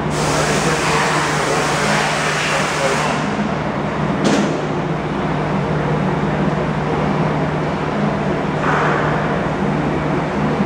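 Steady low machine hum, with a hiss for the first few seconds, a single sharp knock about four seconds in, and a short burst of hiss near the end.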